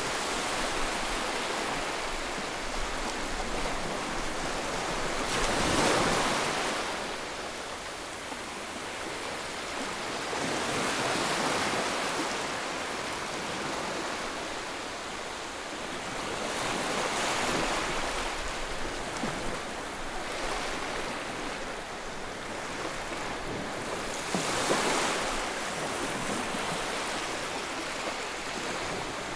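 Ocean surf: a steady wash of water with waves swelling and breaking four times, every five to seven seconds.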